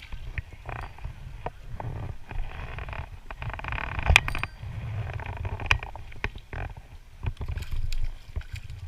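Handling noise in a fishing kayak while a hooked bass is played: scattered clicks and knocks of gear against the hull, with a louder knock about four seconds in, over a low rumble of wind on the microphone.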